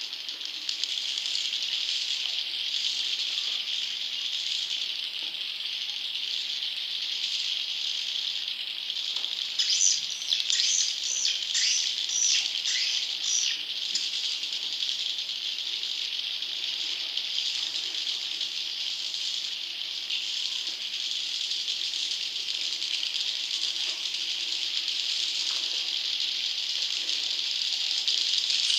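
Edible-nest swiftlet chick calls: a dense, continuous chirring twitter, with a louder run of sharp chirps from about ten to fourteen seconds in. This is the juvenile-swiftlet lure call that swiftlet farmers play to attract wild young swiftlets.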